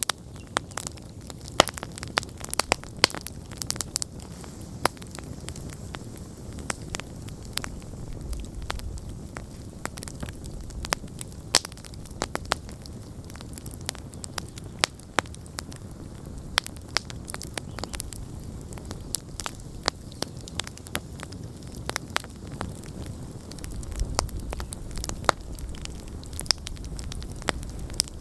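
Wood campfire burning, with frequent sharp irregular crackles and pops over a steady low rumble of the flames; the rumble swells briefly twice.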